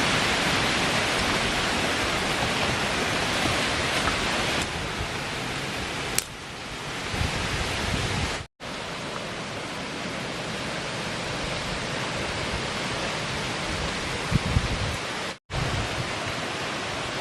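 Strong wind rushing steadily through the forest trees, cut twice by brief gaps.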